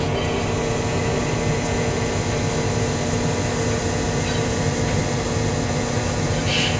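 Model train running on the layout: a steady rumble with a constant low hum.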